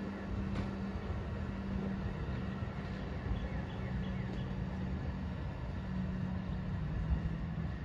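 Amtrak passenger train pulling away, its rear cars rolling off down the track: a steady low rumble with a constant hum and a few faint clicks from the wheels.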